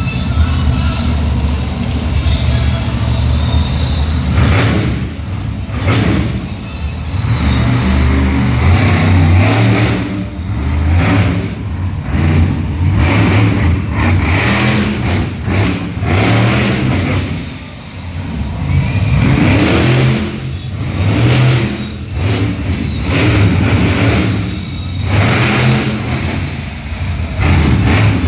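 Monster truck engine revving hard and dropping back again and again, in repeated throttle surges, with a short easing off about two thirds of the way through.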